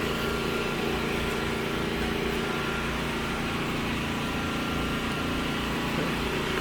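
An engine running steadily, a constant mechanical hum with no change in speed.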